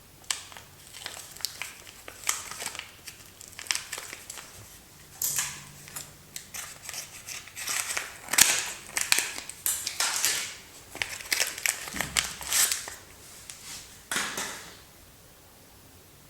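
Soap packaging being unwrapped by hand: irregular crinkling and rustling of the wrapper, busiest in the middle and stopping shortly before the end.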